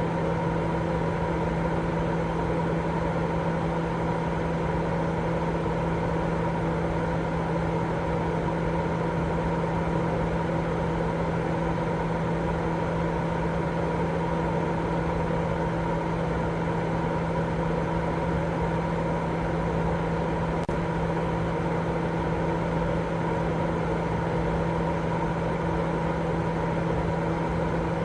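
Continuous white-noise sleep sound: an even, unchanging noise with a constant low machine-like hum in it, like an idling motor or fan.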